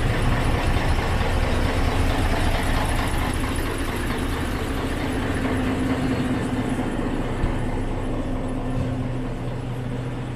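A train running on the rails: a steady mechanical noise with a low hum, slowly fading toward the end.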